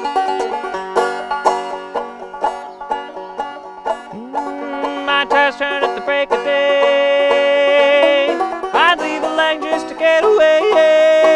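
Banjo picking a steady stream of plucked notes. From about four seconds in, a voice joins without words, holding long notes with upward swoops between them.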